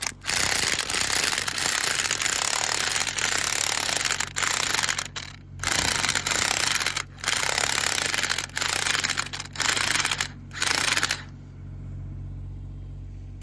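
Impact wrench hammering through an impact socket in repeated short bursts, blipped on and off about six times, to loosen stuck fasteners; it is blipped because an impact wrench gives the most torque on the first blows. A quieter steady hum follows for the last couple of seconds.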